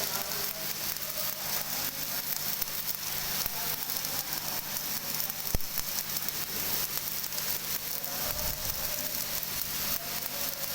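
Electric arc welding with a steady crackle from the arc and a low hum beneath it. One sharp click comes a little past halfway.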